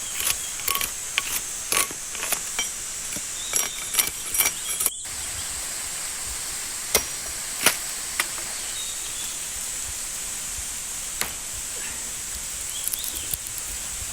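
Branches and sticks being snapped by hand: a quick run of sharp cracks for about five seconds, then a few single snaps spread out. A steady high insect trill and an even hiss of water run underneath.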